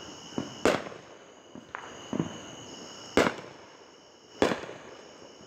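Aerial fireworks going off: a string of sharp bangs, three loud ones about a second apart, more and then just past four seconds in, with softer pops between them. A steady high chirring of insects runs underneath.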